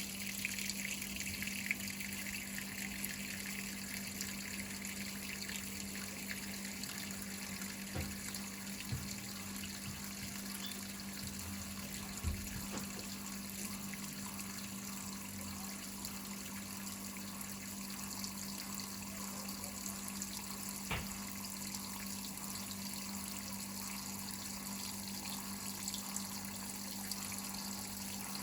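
Whirlpool top-load washing machine filling, water running steadily into the tub, with a steady low hum and a few faint knocks.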